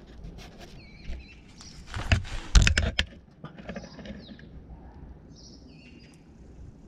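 Birds chirping in short high calls a few times, with a cluster of knocks about two to three seconds in.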